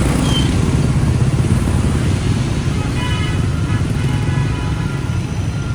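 Busy street traffic, mostly motorbike and car engines running past in a steady low rumble, described as so crazy and so loud.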